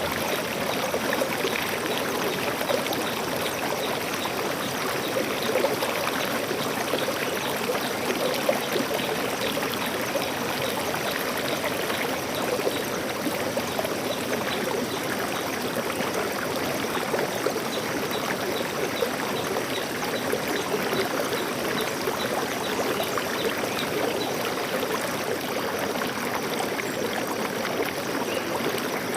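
Stream water flowing and trickling steadily over rocks, an even rushing sound.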